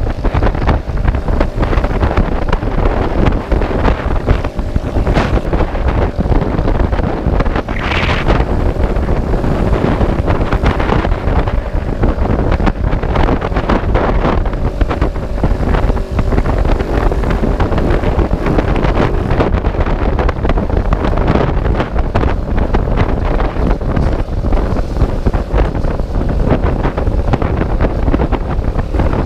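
Heavy wind buffeting a microphone on a moving motorcycle, with a faint steady engine drone beneath it.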